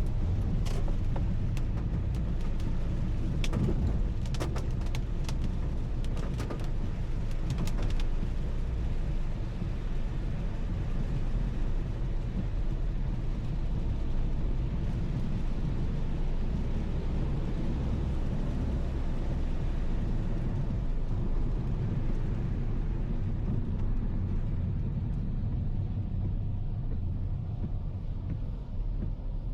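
Car driving on a wet road: a steady rumble of engine and tyres with a hiss of spray and rain. Scattered sharp ticks in the first eight seconds or so, and the hiss thins out over the last few seconds.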